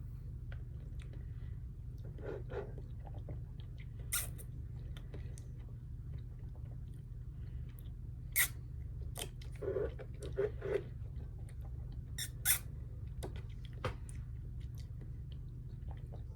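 Close-miked eating: scattered wet chewing clicks and mouth noises, spread out irregularly over a steady low hum.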